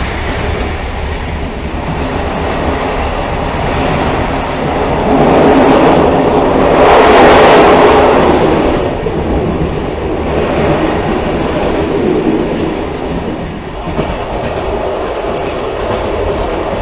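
Railcar running on the rails, a steady rumble with clickety-clack, swelling louder about halfway through and then easing back.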